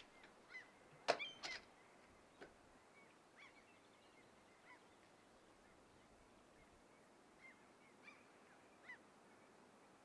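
Birds calling in short, scattered calls, with the loudest cluster about a second in and a few fainter calls later, over a faint steady hiss.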